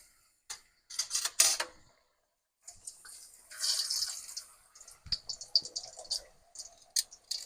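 Poori dough deep-frying in hot peanut oil: a sizzling hiss with crackling pops. A short clatter comes about a second in.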